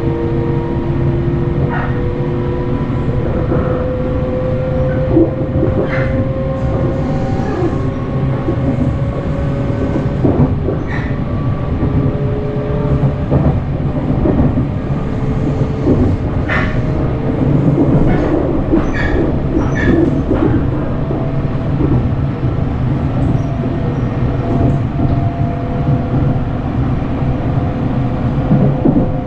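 Sunrise Izumo sleeper train (285 series electric multiple unit) running, heard from inside the car. A steady low rumble carries a motor whine that climbs slowly in pitch as the train gathers speed, with scattered clicks and rattles.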